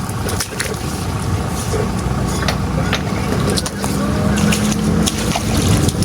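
An engine running steadily with a low rumble. Its hum grows stronger about two-thirds of the way through, and short clicks and knocks are scattered throughout.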